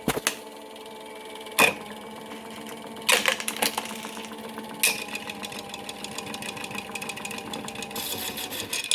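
Battery-powered toy washing machine's small electric motor whirring steadily, with a few sharp clicks and knocks, the loudest about a second and a half in and around three seconds in. The batteries are nearly flat.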